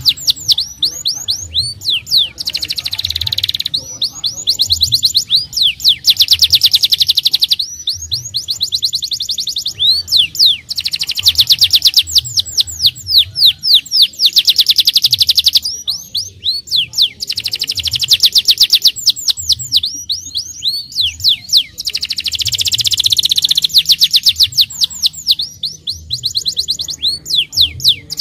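Domestic canary singing: fast rolling trills of rapidly repeated high notes, in phrases a couple of seconds long with short breaks between them.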